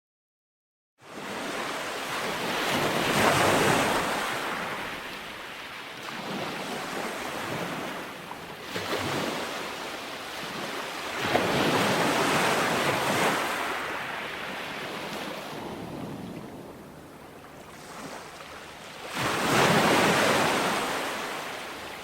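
Ocean waves breaking on a shore, starting after about a second of silence, then swelling and washing back in three big surges roughly eight seconds apart.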